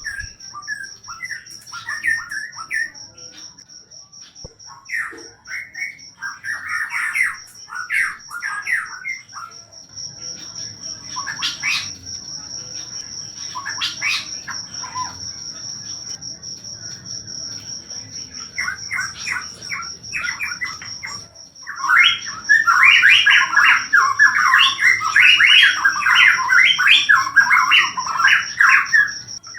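Cucak pantai songbird singing in groups of rapid chattering phrases, which become loud and nearly continuous over the last several seconds. A cricket's steady high-pitched trill runs underneath.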